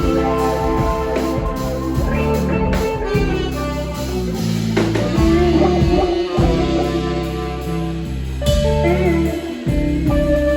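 Live band playing an instrumental passage, led by electric guitar over bass and drum kit, in a bluesy rock style.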